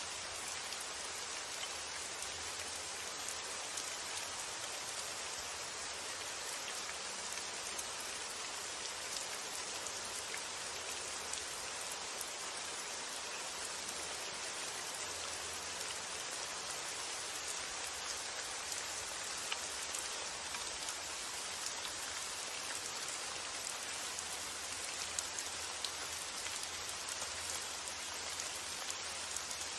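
Steady rain falling, with a constant hiss and many fine drop ticks.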